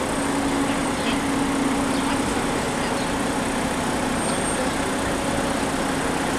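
Car engine idling steadily close by: an even low hum under a steady hiss.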